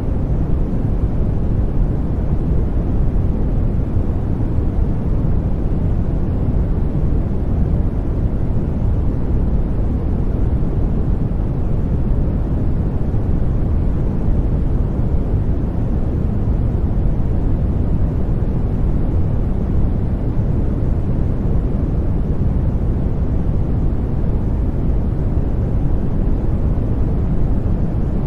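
Continuous 'white noise' sleep sound: an even, unbroken rushing noise, heavy in the bass and dull on top, more a deep rumble than a hiss, with no change at all.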